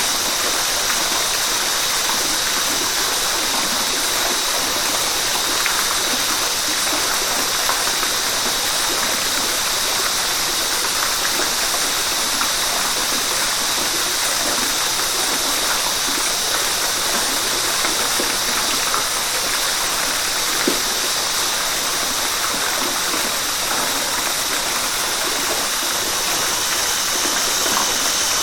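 River water rushing steadily over a waterfall, an even, continuous noise strongest in the higher range.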